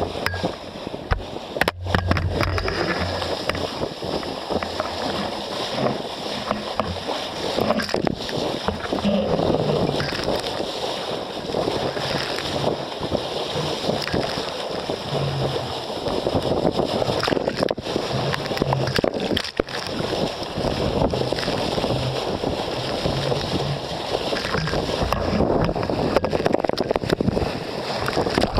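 Water rushing and sloshing along the hull of a sailboat under way.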